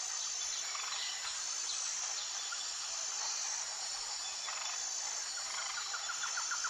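Steady high-pitched chorus of insects, with a fast pulsed trill coming in near the end and growing louder.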